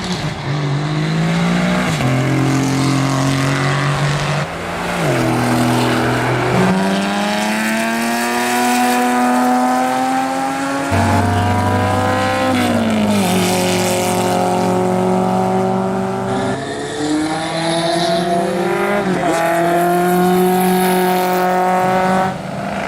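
Racing car engines accelerating hard on a straight, the engine note climbing and then dropping at each gear change, several times over.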